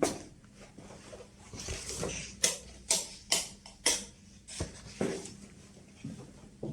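Footsteps on a hard floor indoors, a series of short sharp steps at about two a second.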